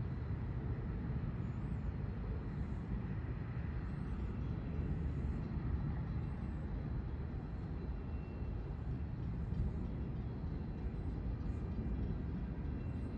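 Long Island Rail Road passenger train running through at speed: a steady rumble of wheels on rail.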